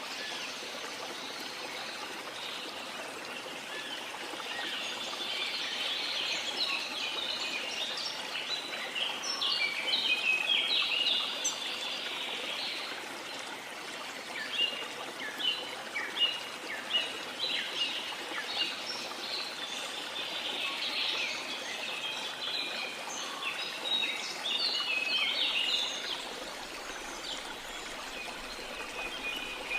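Rainforest ambience: a steady hiss of falling rain under a busy chorus of birds chirping and calling in quick, short notes, thickest through the middle.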